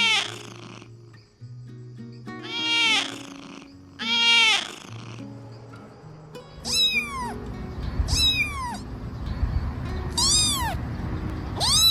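Kittens meowing, about six loud separate meows each under a second long, the later ones higher and thinner, over background music.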